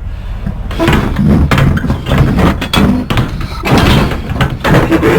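Semi-trailer rear swing doors being shut and their metal lock bars latched: a run of loud, irregular metal bangs and clanks.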